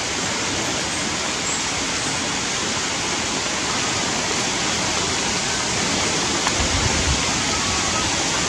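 Steady, even hiss of rain, with a few low rumbles about seven seconds in.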